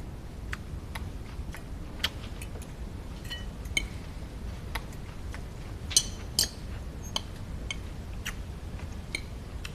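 Irregular light clicks and small metallic clinks, some with a short ring, about two a second, over a low steady hum.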